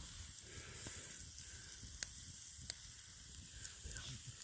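Chicken and a pork chop sizzling faintly on a flat rock heated over a campfire, with a few sharp pops.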